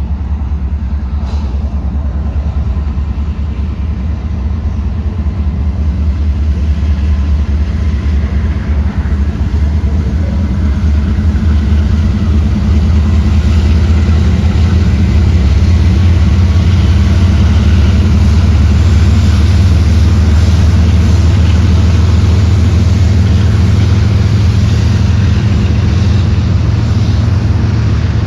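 Diesel freight locomotives passing close by: a loud, steady, low engine rumble that builds over the first dozen seconds and then holds.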